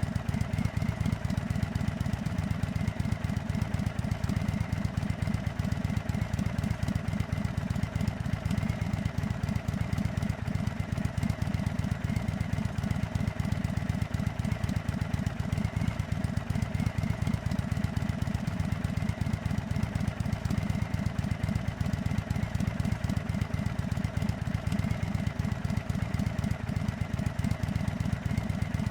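Indian Chief Dark Horse motorcycle's air-cooled V-twin engine idling steadily, with a quick even pulse and no revving.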